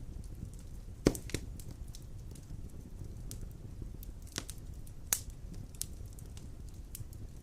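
Wood fire burning in a fireplace: a low steady rumble of flames with scattered sharp crackles and pops, the loudest about a second in.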